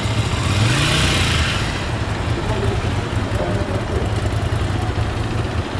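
Motorcycle engine idling steadily, with a short rise in engine pitch and a hiss about a second in.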